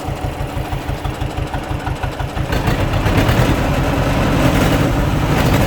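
John Deere 420W's two-cylinder engine idling with a slow, even putt-putt. About two and a half seconds in it speeds up and runs faster and louder.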